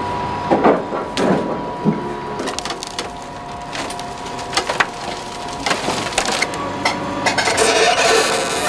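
Wood cracking and splintering: a string of sharp snaps and crunches, thickest near the end, over a thin steady tone.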